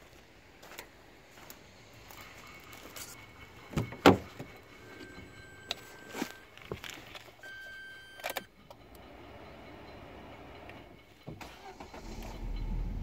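Handling sounds around a car's cab: clicks, a loud knock about 4 s in, keys jangling, and two held electronic tones between about 5 and 8 s. Near the end the car's Z16XEP 1.6-litre 16-valve four-cylinder petrol engine is started and a low engine rumble sets in.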